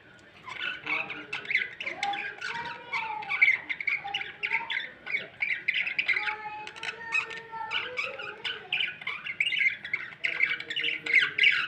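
Parrot squawking in a continuous run of short calls.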